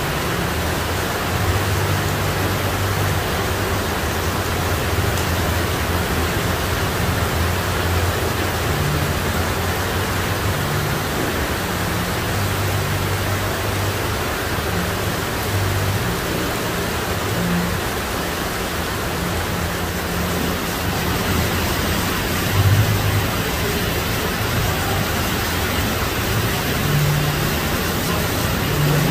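Heavy rain pouring steadily, a dense even hiss, with intermittent low rumbles of traffic on the wet street.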